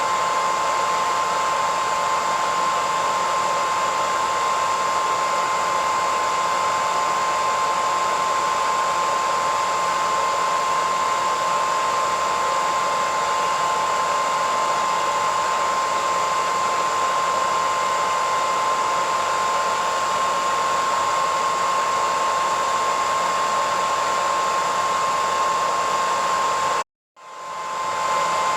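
Hair dryer running steadily: a rushing blow of air with a steady whine near 1 kHz on top. Near the end it cuts out completely for about half a second, then fades back in.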